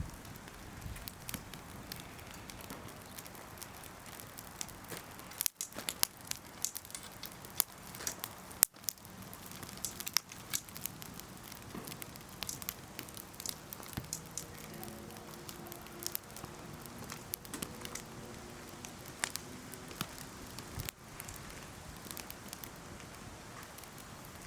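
Wood campfire crackling, with irregular sharp pops and snaps from the burning wood; a few louder pops come in the first half.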